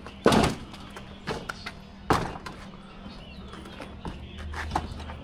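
A plastic storage bin full of toys being slid out and handled: two loud thuds about two seconds apart, with lighter knocks and rattles in between.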